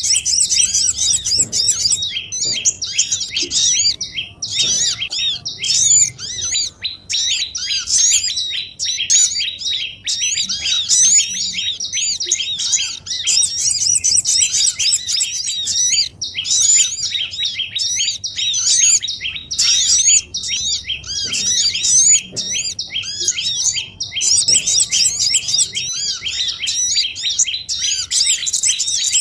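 Dense, overlapping chirping of many small songbirds, quick arched high notes, a bird-lure (pikat) recording meant to draw small wild birds in. The chatter briefly thins a few times.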